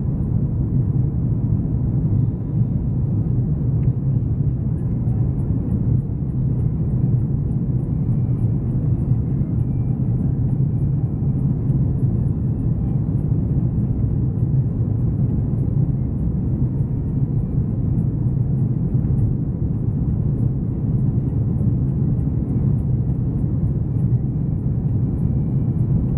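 Steady low rumble of an Airbus A330-200 airliner's jet engines and airflow, as heard from the passenger cabin.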